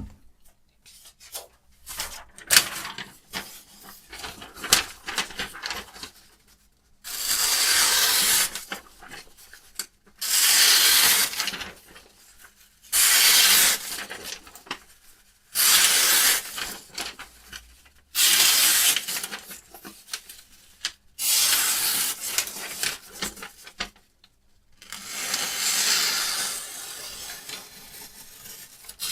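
A sharpening stone drawn along a knife's edge in a Hapstone RS guided sharpener: short scratchy strokes at first, then about seven long, even rasping strokes, roughly one every three seconds.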